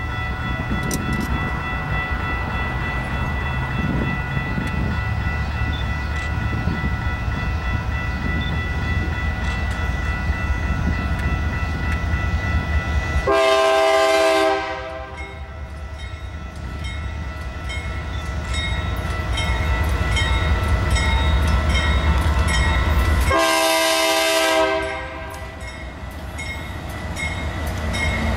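Approaching BNSF freight train led by a GE C44-9W diesel locomotive: a steady low engine rumble that grows louder as it nears. Its multi-note horn sounds two long blasts, the first about halfway through and the second about ten seconds later.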